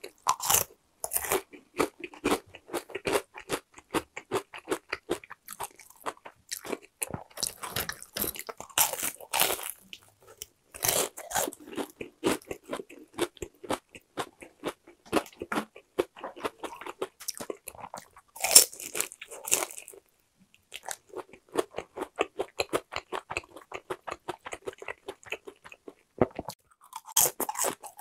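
Close-miked crunching and chewing of crispy, seasoned boneless fried chicken: dense crackling bites, with a few louder crunches and a short pause about two-thirds of the way through.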